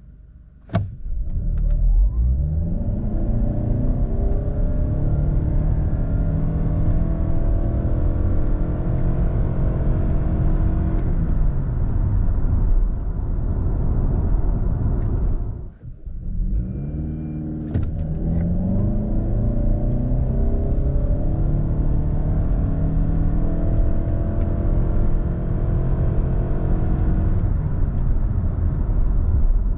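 2022 Lexus ES 300h's 2.5-litre four-cylinder hybrid petrol engine under hard acceleration through its CVT. Revs climb quickly, then hold nearly steady while speed builds, then fall away as the throttle comes off. The sound cuts out briefly in the middle, and a second run follows the same way.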